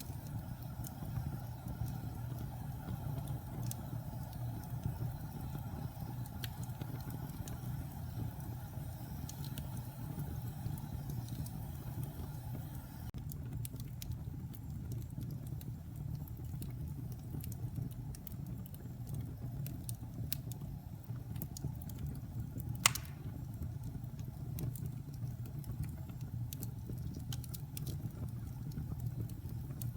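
Wood logs burning in a fireplace: a steady low rumble of flames with scattered small crackles and one loud pop about two-thirds of the way through.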